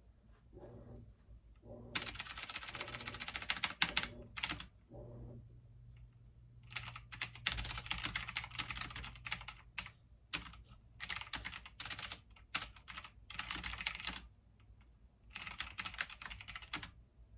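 Typing on a computer keyboard: fast runs of key clicks in bursts of a few seconds, with short pauses between them.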